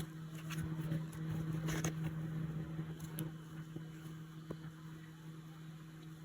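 A steady low hum in the room, with faint scattered rustles and light clicks of yarn and a crochet hook being worked in single crochet stitches.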